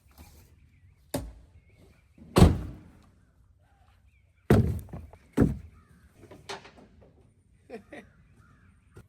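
Firewood logs being tossed and stacked: about six separate heavy wooden thuds a second or so apart, the loudest near the start.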